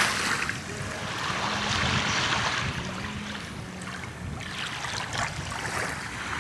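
Steady rushing noise, with soft background music faintly underneath.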